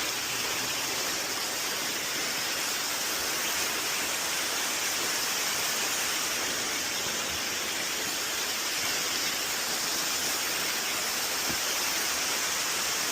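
Small jungle waterfall: a steady, even rush of falling water, with a bright hiss.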